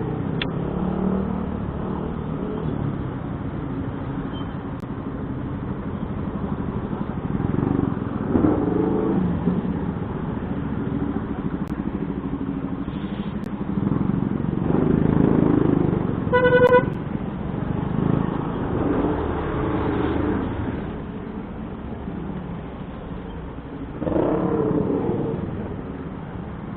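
Road traffic heard from a moving motorcycle: vehicle engines running steadily and swelling as vehicles pass. A short horn beep sounds about sixteen seconds in.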